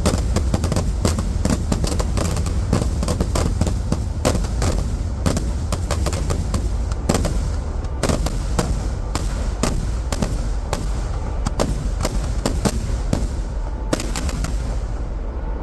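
Kerala temple-festival fireworks barrage (vedikettu): a rapid, continuous string of sharp firecracker bangs, several a second, over a steady low rumble. The bangs thin out near the end.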